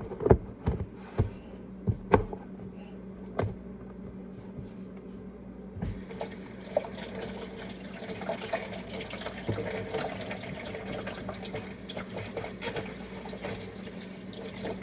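A few sharp plastic clicks and knocks as a lid is fitted onto a container, then, about six seconds in, a kitchen tap starts and runs steadily into the sink.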